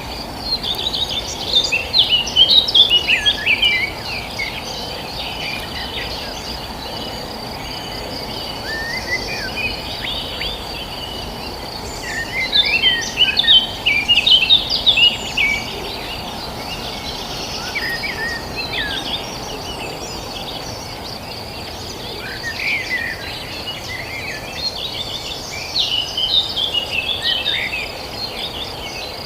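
Songbirds singing and chirping in three bouts, about a second in, from about nine to sixteen seconds, and again near the end. Under them runs a steady high insect trill, like a cricket, over a low steady rush.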